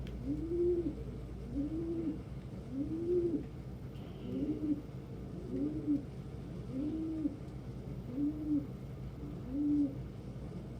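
Domestic pigeons cooing: a steady run of low coos, each rising and then falling in pitch, about one a second.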